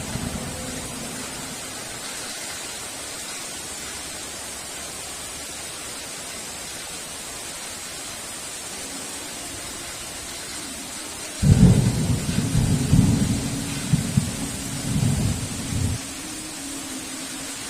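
Steady heavy rain hiss, with a clap of thunder breaking in suddenly about eleven seconds in and rumbling in loud rolls for about four seconds before it drops away.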